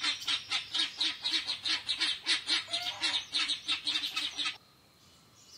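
Guinea fowl giving a rapid, harsh, repeated cackle, about five calls a second, that stops abruptly about four and a half seconds in.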